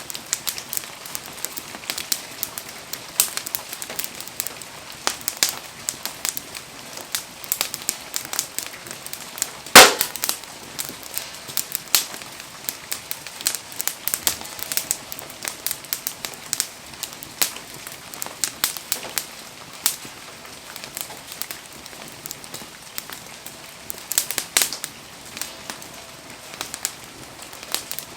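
Wood campfire crackling and popping, with one much louder crack about ten seconds in, over a steady hiss of falling rain.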